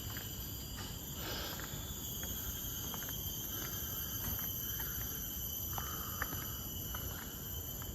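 Steady high-pitched drone of insects in chorus, with scattered faint ticks and a low, even rumble underneath.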